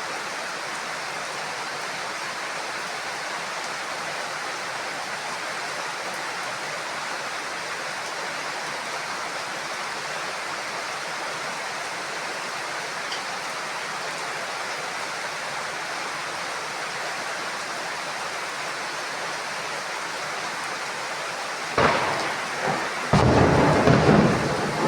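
Steady heavy rain on a roof. Near the end, a sudden crack of thunder, followed about a second later by a louder rolling thunderclap.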